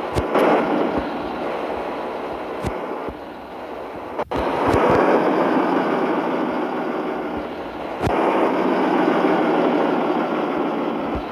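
Mitsubishi Fuso truck on the move: a steady engine and road rumble, broken by abrupt cuts about four and eight seconds in.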